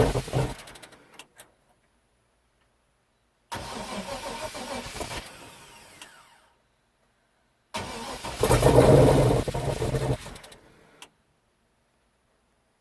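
Freshly swapped 6.0-litre V8 in a Chevrolet S-10 on its first start-up attempts: it fires and runs for a second or two, then dies away, over and over. The loudest burst comes about two-thirds of the way through, and a falling whine trails the quieter burst before it.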